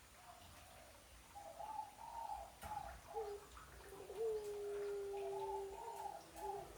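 Female dove cooing to call her mate: plaintive, wavering higher notes with a long held low note about four seconds in, then more cooing near the end.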